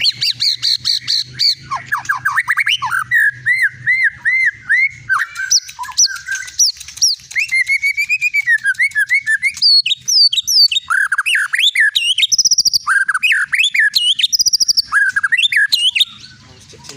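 White-rumped shama (long-tailed Medan murai batu) singing a rich, varied song of rising and falling whistles, quick sweeps and rapid trills, pouring out its repertoire. The song stops about a second before the end.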